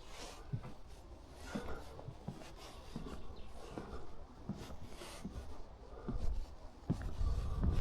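Footsteps on a wooden boardwalk: soft, irregular thuds and scuffs, with a low rumble that rises near the end.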